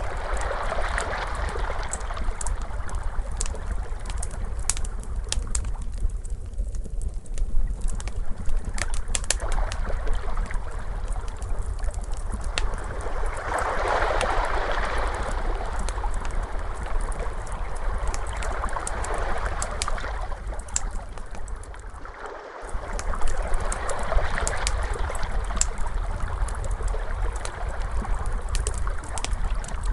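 Ocean waves washing in and out in slow swells, layered with a wood fire crackling and popping in sharp, scattered clicks over a steady deep rumble. The sound dips briefly about 22 seconds in.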